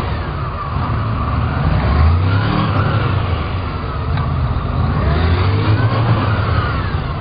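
Police motorcycle engines revving, the pitch rising and falling several times.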